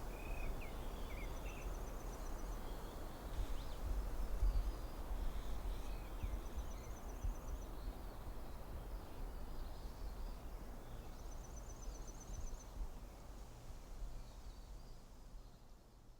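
Forest ambience: a steady low wind rumble with a few short bird chirps, and a fast high trill repeated three times about five seconds apart. It fades out near the end.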